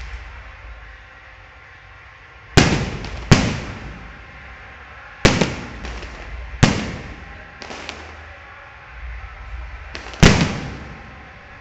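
Fireworks going off: five sharp bangs at irregular intervals, each trailing off in a lingering echo, with a few fainter pops between.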